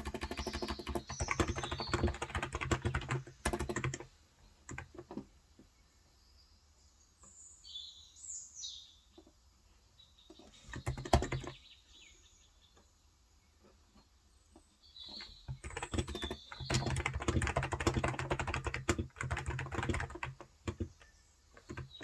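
Typing on a Cox Endeavor 35 g electro-capacitive (topre-style) tenkeyless keyboard: two runs of rapid keystrokes, one at the start and one from about fifteen seconds on, with a single louder keystroke about eleven seconds in. Birds chirp briefly in the pauses.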